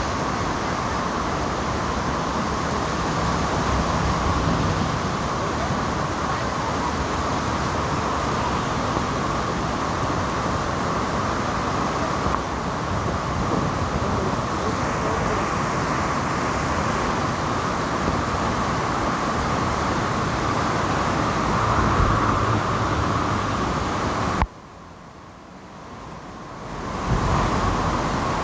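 Heavy rain falling steadily, a dense even hiss. About three-quarters of the way through it drops away sharply for a couple of seconds, then swells back.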